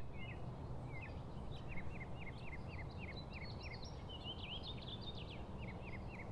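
Birds singing: runs of short hooked chirping notes, about five a second, with a busier, higher phrase in the middle, over a low steady background rumble.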